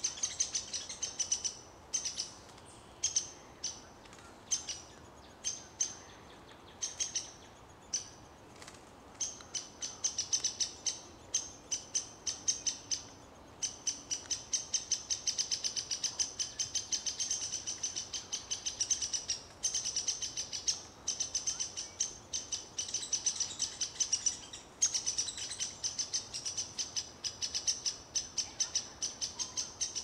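A bird giving rapid series of high, sharp chirps. They come in short runs during the first several seconds, then in long, almost continuous runs with brief gaps.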